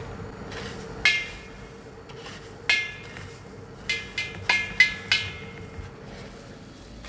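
Metal striking metal: seven sharp clinks, each ringing briefly at the same pitch, the last five coming quickly in a cluster.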